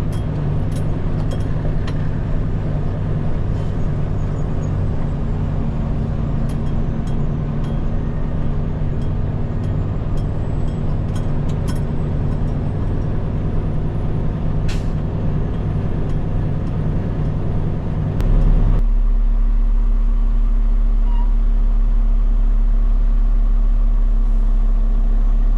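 Peterbilt 589 dump truck's diesel engine running steadily with scattered sharp ticks; about 18 seconds in the sound changes abruptly to a louder, deeper steady rumble.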